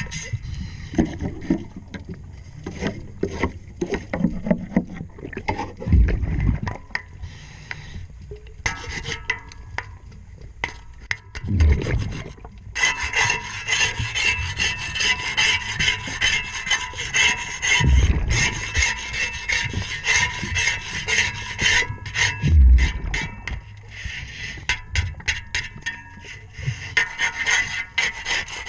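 Underwater scraping and rubbing of a boat propeller being cleaned by a diver: a rapid, continuous rasping that eases off and picks up again. Four short low rumbles, about every five or six seconds, break through it; these are likely the diver's regulator exhaling bubbles.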